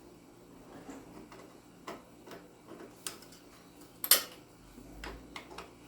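A few scattered light metallic clicks and clinks of a socket wrench and tools working on the engine, the loudest about four seconds in.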